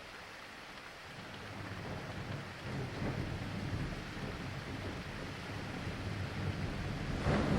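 Steady rain falling while thunder rumbles in about a second in and builds, with a sharper crack near the end.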